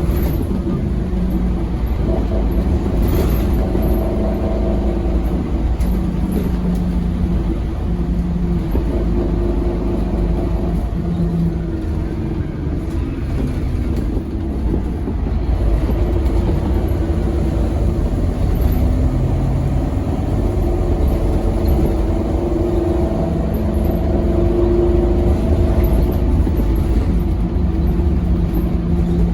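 Scania K270UB6 Omnilink tri-axle bus under way: its engine and a heavy low rumble run throughout, with the engine note stepping up and down in pitch as the bus changes speed and its ZF Ecomat automatic gearbox shifts.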